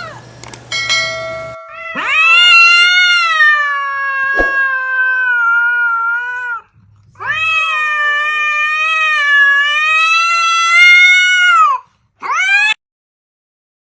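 A cat yowling in two long, drawn-out calls of several seconds each, then a short one near the end.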